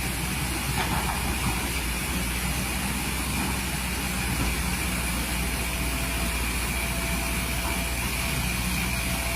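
Excavator's diesel engine running steadily with a hiss. A faint steady whine joins about halfway through.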